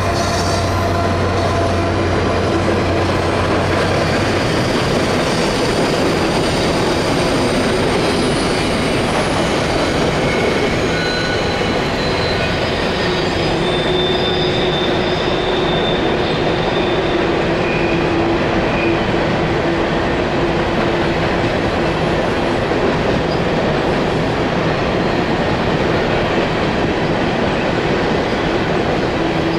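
Freight train cars rolling past in a steady rumble of wheels on rail, with intermittent high-pitched wheel squeal. A low hum drops away about four seconds in.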